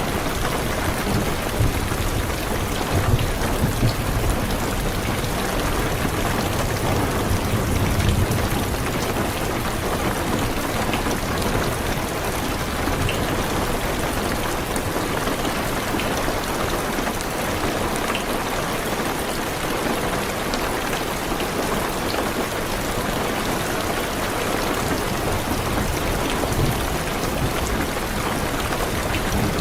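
Heavy rain drumming steadily on a car's roof and windows. A low rumble of thunder dies away over the first eight seconds or so, and a few separate drop ticks stand out later.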